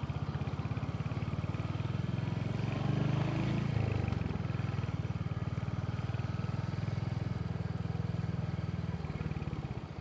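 Royal Enfield motorcycle engine running at low speed in stop-start traffic, a steady throbbing exhaust note that rises briefly in revs about three seconds in, then settles back.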